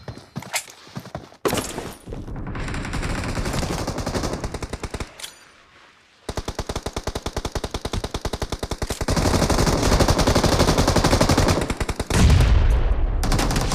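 Automatic gunfire sound effects in a shooting video game: a few shots, a dense stretch of fire, a short lull near the middle, then a steady burst of about ten rounds a second that grows heavier near the end.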